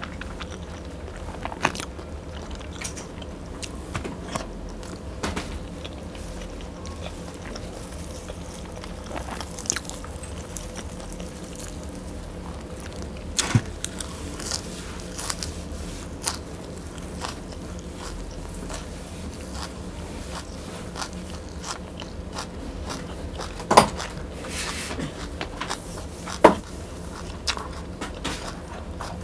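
Close-miked eating: chewing and biting of rice, braised pork belly and fresh coriander sprigs, with scattered short crunches and clicks over a steady low hum. Two louder sharp clicks come near the end.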